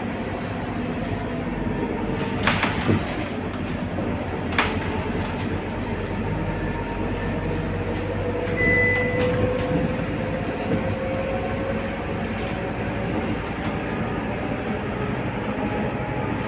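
Scania K230UB city bus's diesel engine running on the move, with a steady drone. Two sharp rattles or knocks come a few seconds in, and a whine rises slowly in pitch around the middle.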